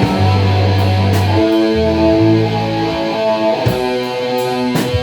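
Band playing a song's chorus: held electric guitar chords over changing low bass notes, with a few sharp drum hits.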